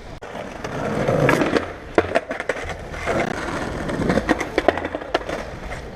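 Skateboard wheels rolling with a steady rumble, broken by several sharp clacks of the board.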